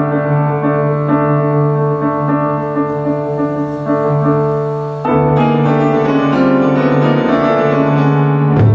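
Piano playing slow, held chords, with a new, louder chord struck about halfway through.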